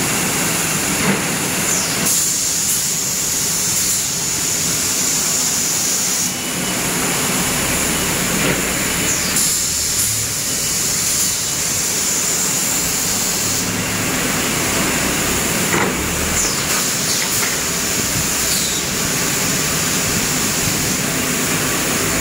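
Automatic plywood sanding machine running steadily, a loud mechanical rumble and hiss with a strong high-pitched hiss and scattered light clicks.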